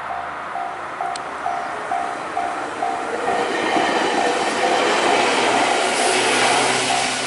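Japanese level-crossing warning bell ringing, a single tone repeating about twice a second, while an electric train approaches and passes, its wheel and rail noise growing louder from about three seconds in.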